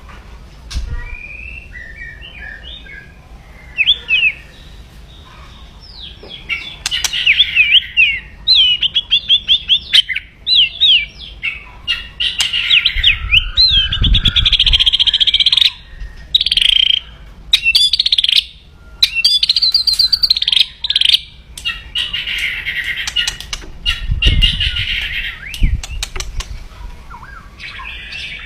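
White-rumped shama (murai batu) singing aggressively: loud, fast bursts of warbled phrases and rapid rattling 'kretekan' trills. A few low thumps come around the middle and again near the end.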